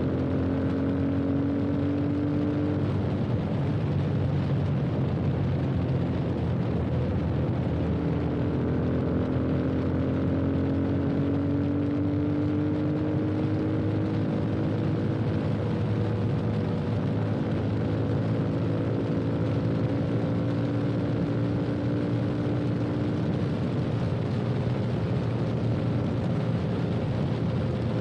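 Yamaha FZ25's single-cylinder engine through an aftermarket slip-on exhaust, running steadily while the bike is ridden. Its pitch climbs slowly three times, with breaks in between, as the rider rolls on the throttle.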